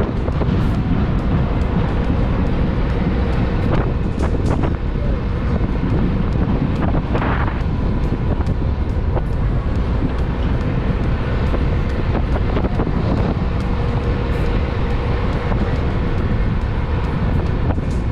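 Wind buffeting the microphone: a steady, loud low rumble with a faint steady hum underneath.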